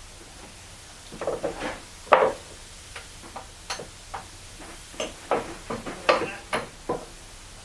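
A dozen or so irregular sharp taps and knocks of a hammer striking bolts to drive them through an outboard motor mount, the loudest about two seconds in.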